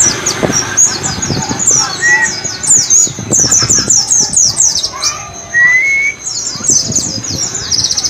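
Pleci (white-eye) singing a rapid twittering ngalas song: fast runs of high, downward-slurred notes over a steady high whistle, with a few lower whistled notes mixed in.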